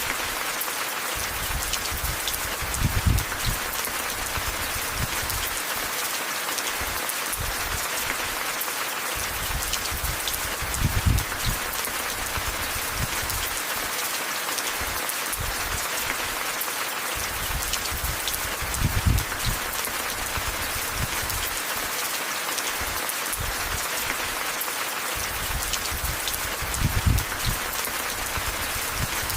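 Steady rain falling in a dense even hiss. A short low rumble swells up and fades about every eight seconds.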